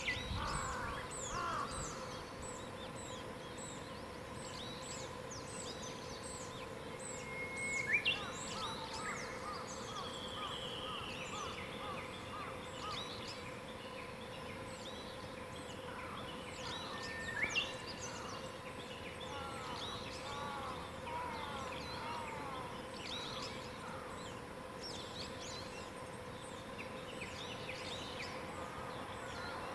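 Mixed wild birdsong in mountain woodland: several birds singing at once. A run of high thin notes repeats about twice a second through the first third, and louder calls come at about 8 and 17 seconds in, over a faint steady hum.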